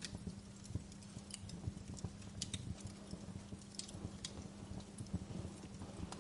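Wood fire crackling: irregular sharp snaps and pops, a few louder ones, over a low rumble of burning, with a faint steady low hum underneath.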